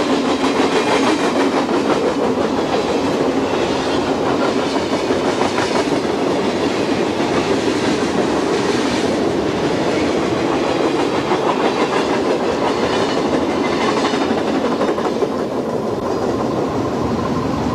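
Train rolling past, its wheels clacking steadily over the rail joints.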